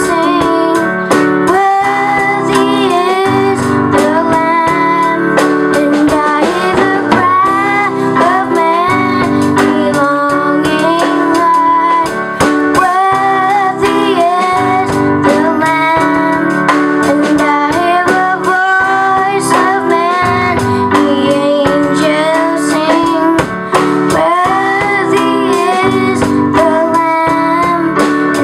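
A song with a woman singing over guitar accompaniment.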